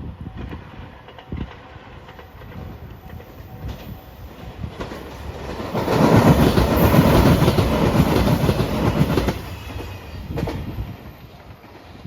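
JR Shikoku 2700 series diesel limited express train passing, wheels clicking over the rail joints. It swells, is loudest from about six to nine and a half seconds in, then fades away.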